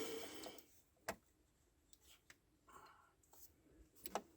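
Near silence in a small room, with a few faint clicks and light handling noises; the clearest clicks come about a second in and near the end.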